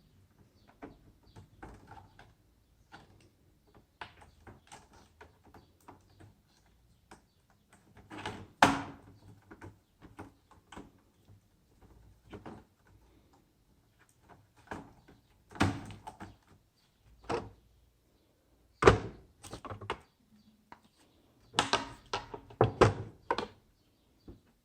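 Irregular clicks, taps and knocks of hard plastic and metal laptop parts and tools being handled, with a few louder knocks about a third of the way in and again in the last third.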